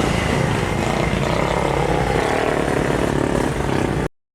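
Heavy truck traffic passing on a highway: steady engine rumble and tyre noise that cuts off suddenly about four seconds in.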